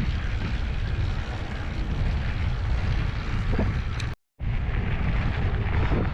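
Wind buffeting the microphone with a steady low rumble from riding an e-bike over a dirt trail. The sound cuts out completely for a split second about four seconds in.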